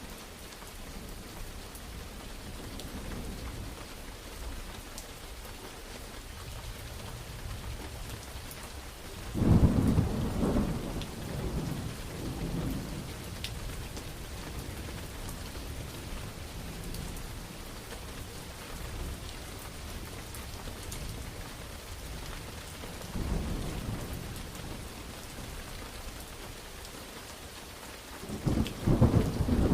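Steady rain falling, with thunder rumbling three times: a loud roll about a third of the way in, a weaker one past the middle, and another loud one near the end.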